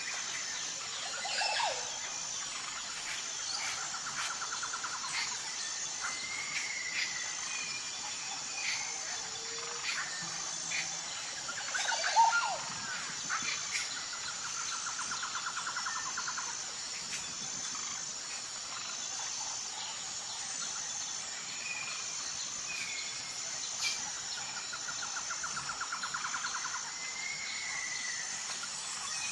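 Nature ambience: a steady high-pitched insect chorus with birds calling and chirping over it. A buzzy trill comes three times, and the loudest sharp call is about twelve seconds in.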